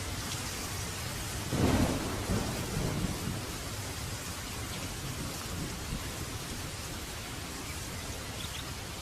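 Steady rain falling, with one burst of thunder about a second and a half in that rumbles for a couple of seconds and fades back under the rain.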